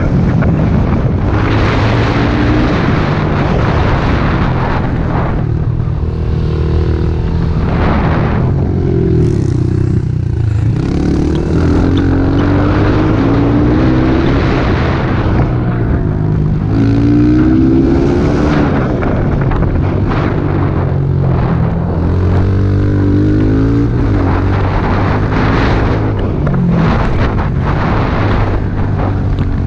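Small pit bike engine being ridden hard, revving up and easing off again and again as the rider works the throttle and shifts.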